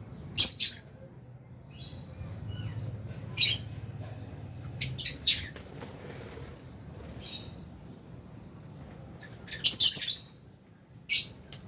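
Lovebirds in an aviary giving short, shrill, high-pitched calls in about five separate bursts, the loudest cluster near the end, over a steady low hum.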